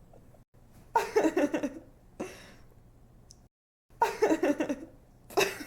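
A young woman giggling in short bursts of quick, pulsing laughter, three times, with a breathy intake between the first two.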